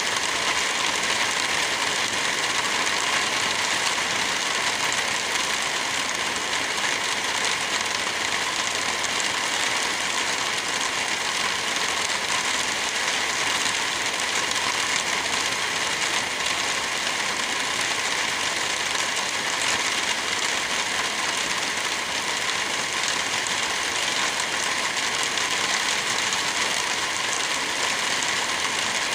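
Steady rain, an even hiss that holds level throughout.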